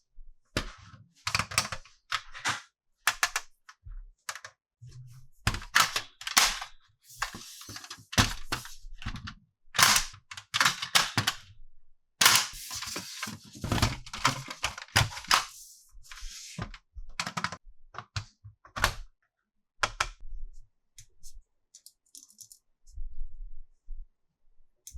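Hard plastic toy parts being handled: irregular clicks, snaps and clatters, with a few longer rustles in the middle, thinning to a few quiet ticks near the end.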